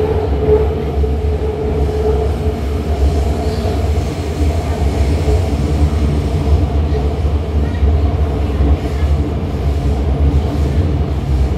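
Guangzhou Metro Line 9 B-type train, built by CRRC Zhuzhou, running at speed: a steady loud rumble, with a whine that fades about two seconds in.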